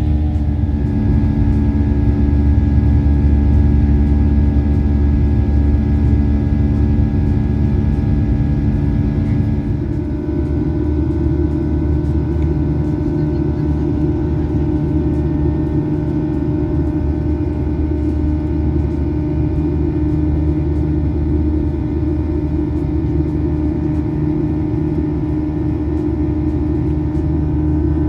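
Airliner jet engines heard from inside the cabin: a steady low rumble under several steady whining tones. About ten seconds in the engine tones change pitch and the rumble eases slightly, then it runs evenly.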